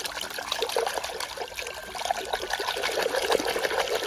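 Water trickling and splashing as a dirty toy rooster is washed, with many small crackling splashes.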